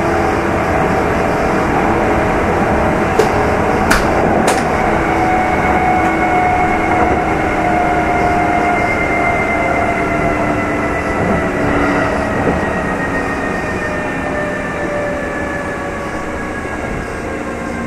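Kintetsu 2800-series electric train running, heard from inside motor car Mo 2813. Traction motor and gear whine falls slowly in pitch as the train slows, over steady wheel-on-rail noise. A few sharp clicks come about three to four seconds in.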